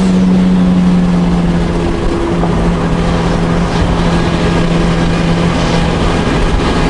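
Turbocharged Honda B18 four-cylinder engine of a 1999 Acura Integra GSR, heard from inside the cabin, holding a steady note while cruising, with road noise underneath. The engine is running on three cylinders, with low compression on cylinder one.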